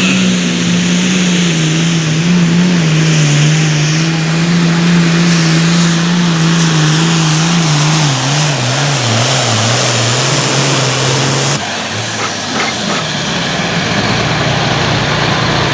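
Pulling vehicle's engine run hard against the sled. Its pitch slowly falls and wavers as it loads down, then it cuts off abruptly about eleven and a half seconds in, leaving a duller steady noise.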